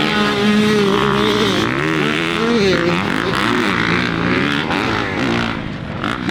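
Several dirt bike engines racing on a motocross track, revving up and down over one another as the riders work the throttle.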